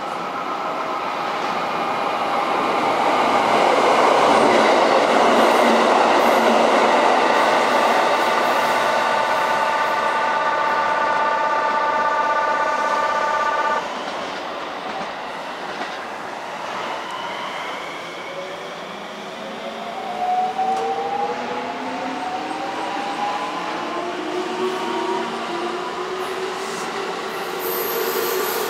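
KiHa 85 series diesel railcar with Cummins engines running in along the station track, engine and wheel noise swelling to its loudest early on, then holding steady whining tones. Around halfway there is an abrupt change to an electric train whose motors whine steadily upward in pitch as it accelerates.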